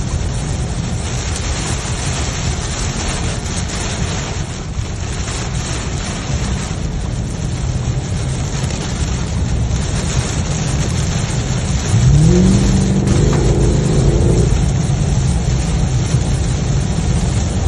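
Wind rush and road noise from a moving motorcycle, with the engine under it. About twelve seconds in, the engine note rises in pitch as it accelerates, and the sound gets louder from there.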